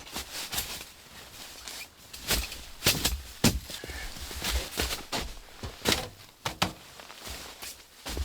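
Scattered knocks and clunks with rustling, as of camping gear being handled and moved about; the sharpest knocks come in a cluster around the middle.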